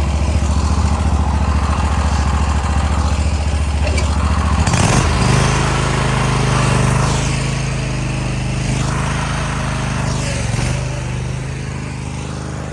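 A vehicle engine running with a steady low drone. About five seconds in, its note jumps up and swells, then gradually eases off.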